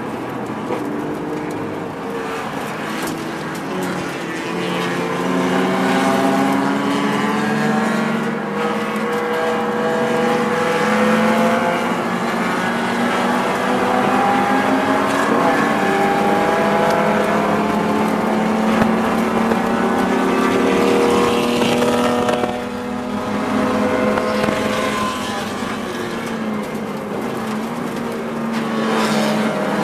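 BMW E36's straight-six engine, heard from inside the race car's cabin, pulling hard through the gears. The engine note climbs again and again and drops back at each upshift, with a short lift in power about two-thirds of the way through.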